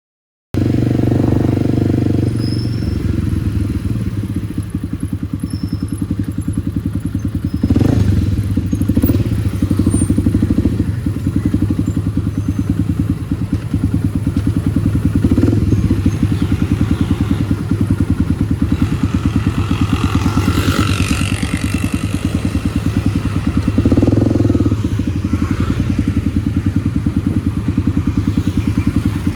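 Kawasaki D-Tracker 250's single-cylinder four-stroke engine running under way through an aftermarket White Brothers exhaust, a fast, even pulse, with a few brief thuds.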